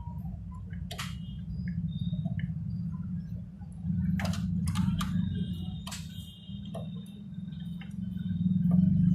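Photocopier running: a steady low hum with several sharp mechanical clicks and a thin high tone held for a couple of seconds midway.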